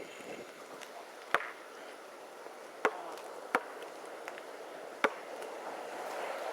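Four sharp knocks, irregularly spaced, over steady wind noise.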